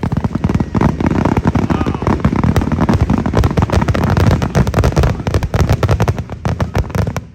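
A string of firecrackers going off: a dense, rapid run of loud sharp pops and crackles that starts suddenly and continues for about seven seconds.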